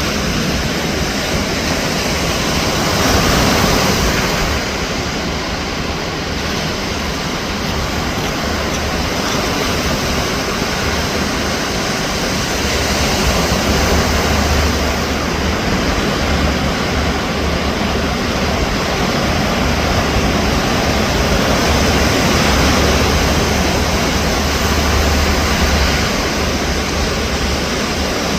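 Ocean surf: a steady rush of breaking waves that swells a little louder every few seconds.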